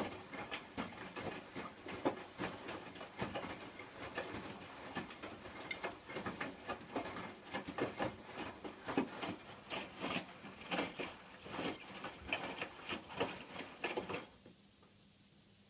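Hotpoint washing machine in its wash cycle, the drum turning and the wet load tumbling with a dense, irregular run of clicks and knocks. The tumbling stops about a second before the end as the drum pauses.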